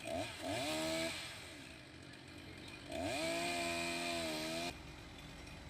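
Chainsaw engine revved up twice: a short burst of about a second, then a longer one held high for about a second and a half that cuts off suddenly.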